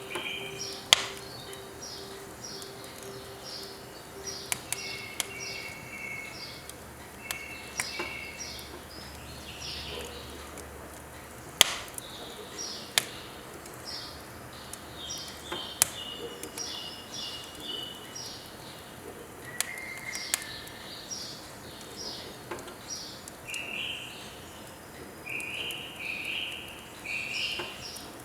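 Firewood burning in a wood stove, crackling with sharp pops every few seconds, while birds sing short repeated phrases of bright chirping notes throughout.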